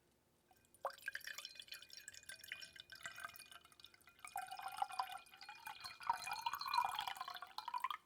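Water dripping and trickling close to the microphone, starting suddenly about a second in and thickening from about four seconds into a denser run with a wavering pitch, then cutting off just before the end.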